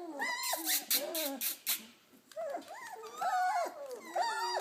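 Several four-week-old Bernedoodle puppies whining and whimpering, short overlapping high cries that bend up and down in pitch, with a run of scratchy clicks about half a second to a second and a half in.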